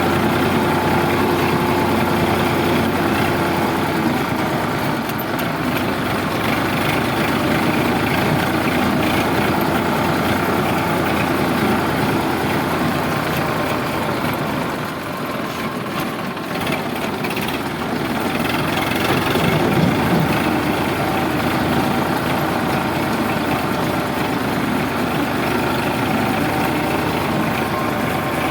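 Sonalika DI 745 tractor's diesel engine running steadily. Its level dips about fifteen seconds in and picks up again a few seconds later.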